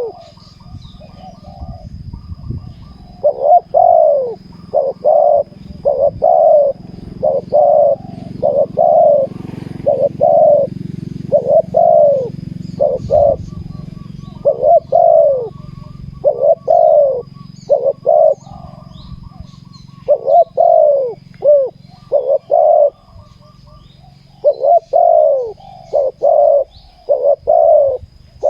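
Spotted doves cooing, a steady run of repeated falling coo phrases with short pauses between them.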